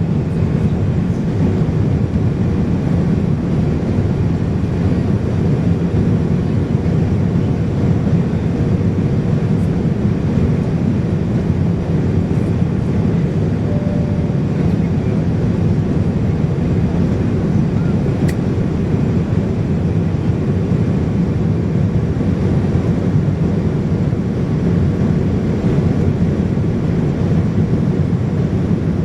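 Steady cabin noise of a Boeing 787-9 airliner in flight: an even drone of engines and rushing air, strongest low down.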